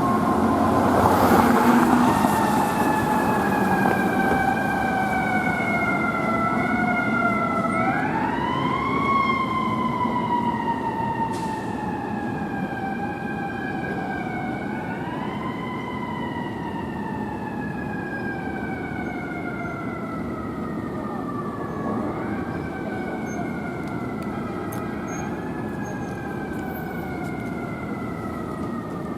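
Fire engine siren wailing, its pitch climbing quickly and then sliding slowly down, about every seven seconds. It grows fainter as the apparatus pulls away on a run.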